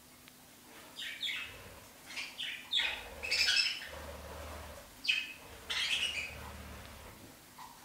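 Small bird chirping in a series of short, high calls, busiest around the middle.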